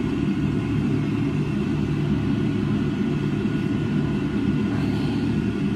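A steady low mechanical hum, like a motor running, with a faint steady high whine over it.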